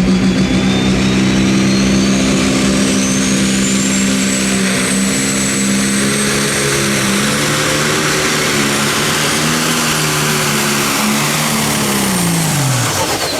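Pro Stock pulling tractor's turbocharged diesel engine running flat out under load, with a high turbocharger whistle that climbs in pitch over the first few seconds and then holds. Near the end the engine and the turbo whistle both fall in pitch as the tractor shuts down at the end of the pull.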